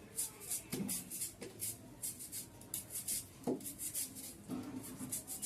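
Knife cutting onions on a chopping board: an irregular run of short, crisp cuts, several a second, with a few duller knocks of the blade on the board.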